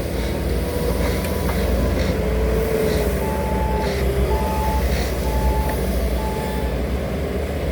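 Heavy diesel road-construction equipment running with a steady low rumble. A reversing alarm beeps four times at an even pace, starting about three seconds in.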